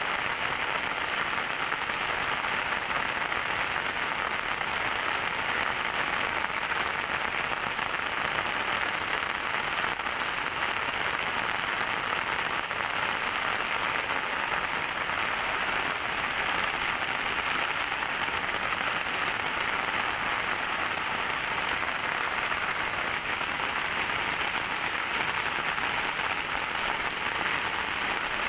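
Heavy rain pouring steadily, a dense even hiss of downpour on surfaces.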